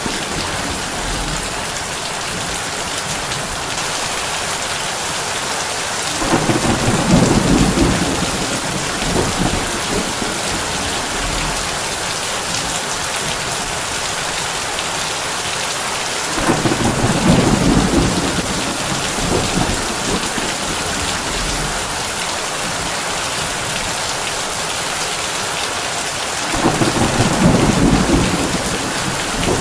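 Heavy rain falling steadily on a tin roof, with thunder rumbling three times, about every ten seconds.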